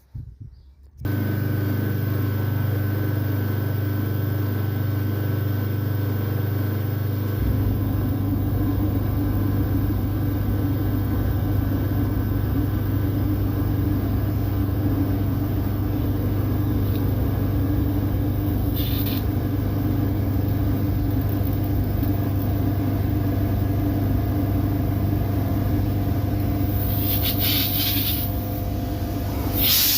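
Pressure washer motor starting suddenly and running steadily with a low hum. Short hisses of spray come midway and again near the end.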